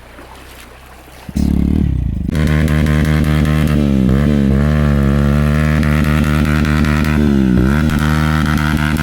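Hero Glamour motorcycle's single-cylinder engine, coming in loud about a second in and pulling hard under load, its pitch dipping and climbing back twice as the rider works the throttle.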